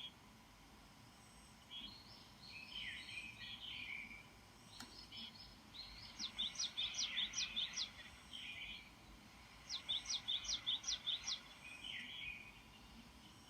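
Small wild birds singing and calling. There is warbling song throughout, and about 6 s and again about 10 s in comes a quick run of six or seven sharp, high, down-slurred notes, about four a second.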